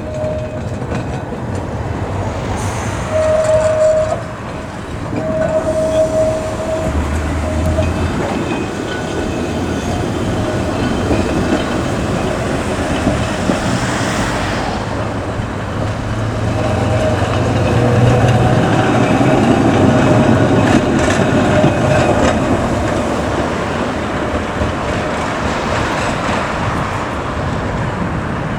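Heritage tram running along the rails, its wheels clattering over the track with a continuous rumble. Two short steady horn tones sound about three and five seconds in. The running noise is loudest about two-thirds of the way through.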